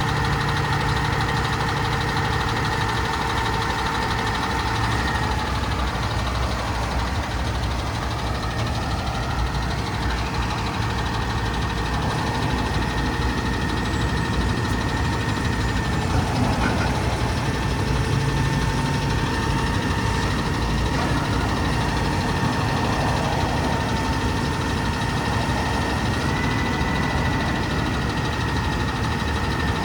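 Diesel engine of a Freightliner M2 grapple garbage truck idling steadily, with a faint high whine over the low rumble.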